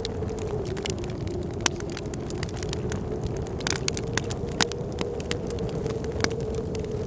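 A fire in a fireplace crackling, with several sharp louder pops, over a steady howl of blizzard wind.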